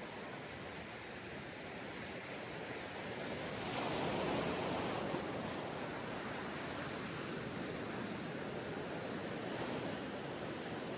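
Ocean waves washing onto a sandy beach, a steady wash of surf with one wave breaking louder about four seconds in.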